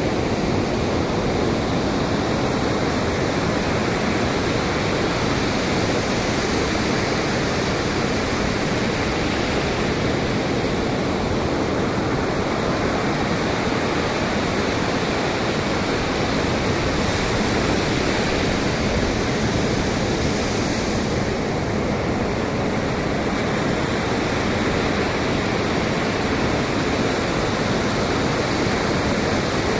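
Steady rush of Pacific Ocean surf mixed with wind, a constant even roar with no distinct wave breaks.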